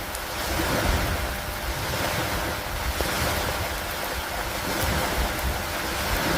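Steady rain falling hard, a dense hiss with a few faint drop ticks. A low rumble runs underneath, and the whole sound swells and eases every couple of seconds.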